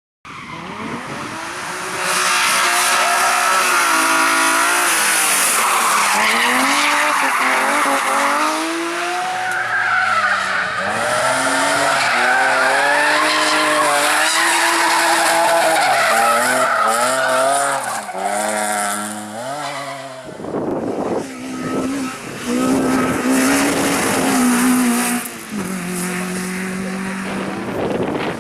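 Race cars driven hard. Their engines rev up and drop back again and again through gear changes, with tyre noise. About twenty seconds in, the sound shifts abruptly to a car at a different engine pitch.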